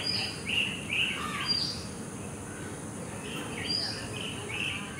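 Birds chirping in quick runs of short notes, some sliding down in pitch, with a pause in the middle. A steady high hiss and a low even rumble run underneath.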